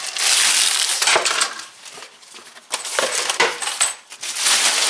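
Packets of small mud-guard mounting hardware (clips and bolts) being handled, plastic crinkling and rustling in several bursts with small metal parts clinking.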